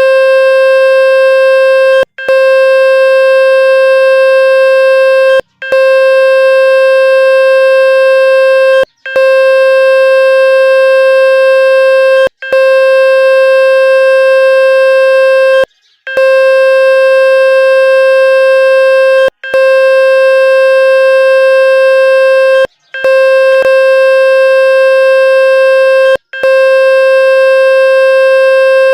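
Loud, steady buzzing electronic tone played to shake water out of a phone speaker, cut by a brief gap about every three and a half seconds.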